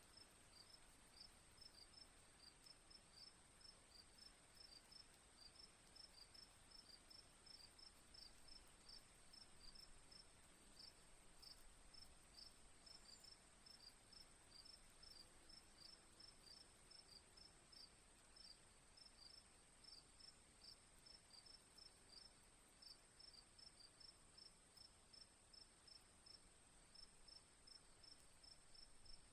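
Faint crickets chirping in short, evenly repeated pulses a few times a second, over a steady high-pitched insect drone.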